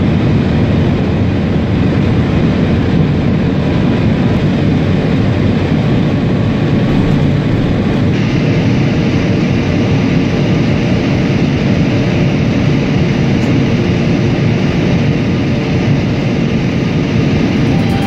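High-speed train running at speed: a loud, steady rush of rolling and air noise that gains more hiss about eight seconds in.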